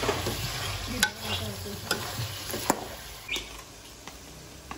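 Chicken pieces frying and sizzling in oil in a steel karahi (wok) on a gas stove, with a few sharp clinks of a metal spoon against a glass jar. The chicken has given back the oil it soaked up, the stage at which the rest of the ingredients go in.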